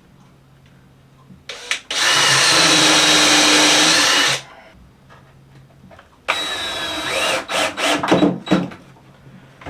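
Power drill driving two screws into wood, each a run of about two seconds of steady motor whine, the second ending in a few short jolts as the screw seats. A couple of light knocks come just before the first.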